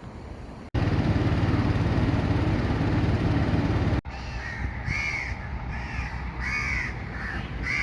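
A steady loud rushing noise cuts in abruptly about a second in and stops suddenly at about four seconds; then crows caw over and over, one short harsh call after another.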